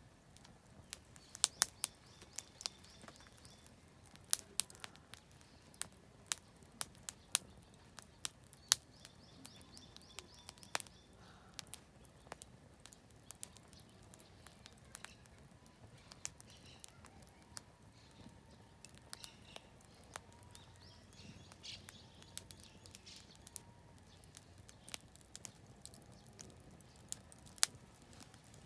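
Oak firewood burning in a campfire, crackling with sharp, irregular pops, some of them loud. Small birds chirp in short bursts several times.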